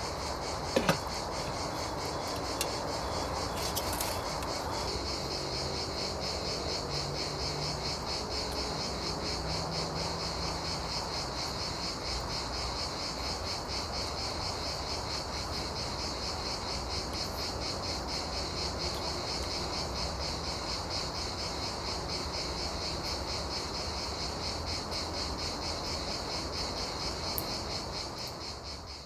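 Insects trilling steadily in a high, rapidly pulsing chorus, with two sharp clicks about a second in. The sound fades out near the end.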